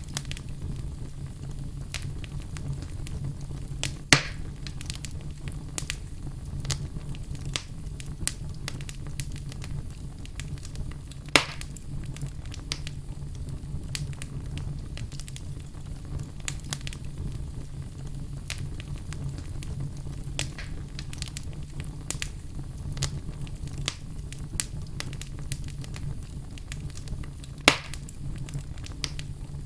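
Wood fire burning in a fireplace, crackling steadily with frequent small snaps and three louder pops, over a low steady rumble.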